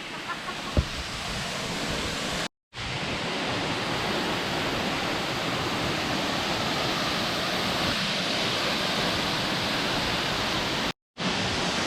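Waterfall: a steady rush of falling water. It drops out to silence for a moment twice, about two and a half seconds in and near the end.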